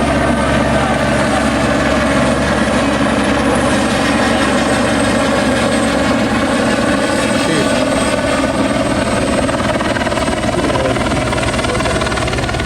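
Police helicopter hovering overhead during a ground search, its rotor and engine making a steady, loud drone.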